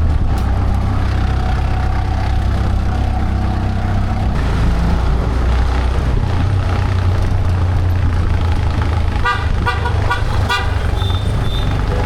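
Motor vehicle engine running steadily, with a quick string of short horn toots about nine to ten seconds in.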